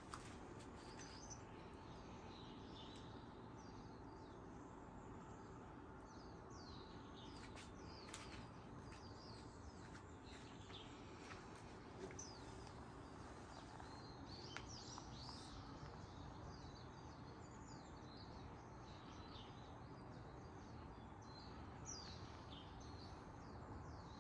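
Faint chirps of small birds, many short high calls coming now and then, over a low steady background hum.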